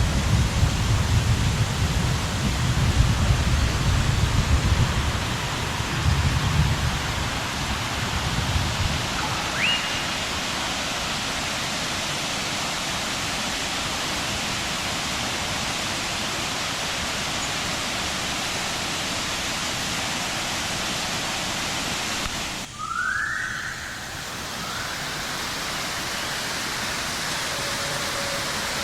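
Waterfall rushing steadily, an even hiss of falling water, with a heavy low rumble over the first nine seconds or so. Two short rising whistles cut through, one about ten seconds in and one about two-thirds of the way through.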